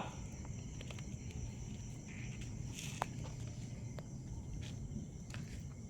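Steady high chirping of insects over a low outdoor rumble, with a few scattered clicks and one sharp snap about three seconds in.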